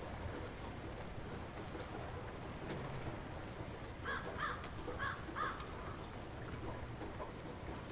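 Light rain falling steadily, with a bird calling four times, in two quick pairs, about halfway through.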